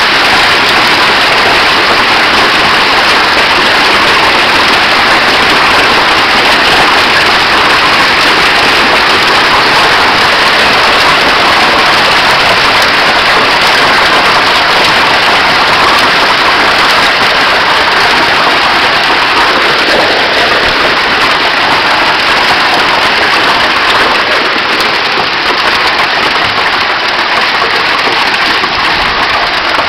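Heavy thunderstorm downpour of rain and hail pelting down, a loud, dense, steady hiss that eases slightly near the end.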